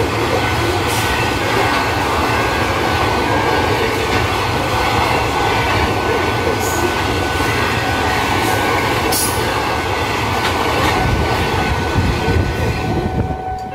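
Freight train's open-top gondola wagons rolling past close by: a steady rumble and rattle of steel wheels on rail, with a thin, high, steady wheel squeal and a few sharp clanks. The sound fades near the end.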